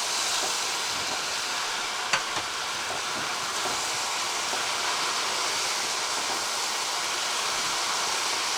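Stir-fry sizzling steadily in a non-stick pan on high heat, with a single sharp tap about two seconds in.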